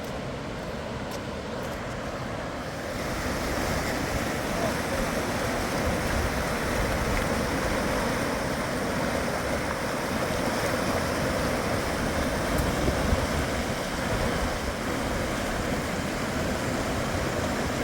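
Rushing river water: a steady rush that grows louder and fuller about three seconds in.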